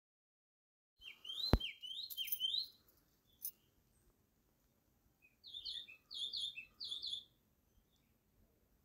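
Ashy drongo calling in two bouts of three quick, twisting phrases, a few seconds apart. A single sharp click comes during the first bout.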